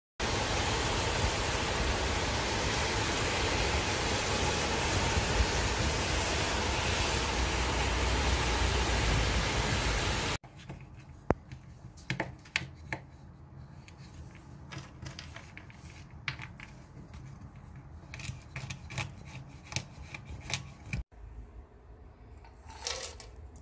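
Steady heavy rain hiss for about the first ten seconds, cutting off abruptly. Then a knife clicks and taps on a wooden chopping board as almonds and pistachios are slivered, with another cut and a short scrape near the end.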